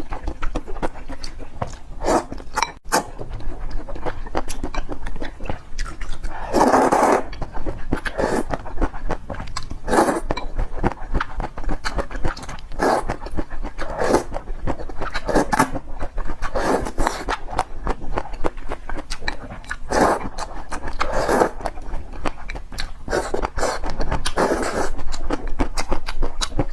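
Close-miked eating sounds: a person chewing and biting food, in short noisy bursts about every one to two seconds with small clicks between them.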